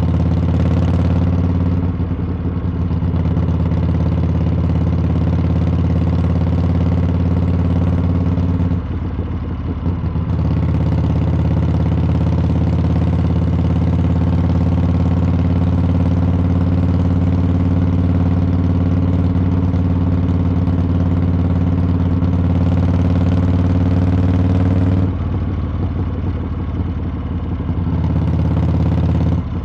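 Harley-Davidson V-twin exhaust running steadily. The note drops away twice, about nine seconds in and again about twenty-five seconds in, before picking back up.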